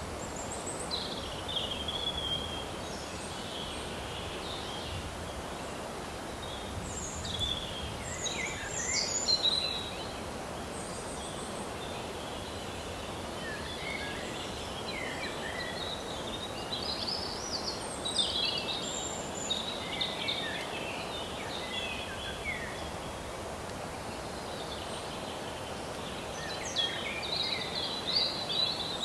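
Small birds chirping and singing in scattered short phrases over a steady outdoor hiss.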